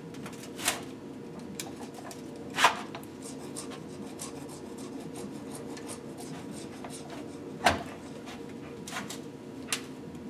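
A metal pick scraping and clicking in a piston's ring grooves and oil holes, digging out old carbon and oil goo. There are many short scratches and three louder sharp scrapes, under a second in, near three seconds and near eight seconds, over a steady low hum.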